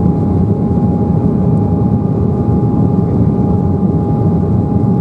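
Steady cabin noise inside an Embraer 190 airliner in flight: the rush of its GE CF34 turbofan engines and airflow, with a steady hum tone running through it.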